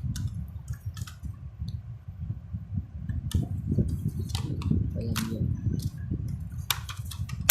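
Small clicks and taps of a 1:24 die-cast model car being handled, its little doors and parts worked open and shut. The clicks come thicker near the end and finish with one loud click, over a low rumble.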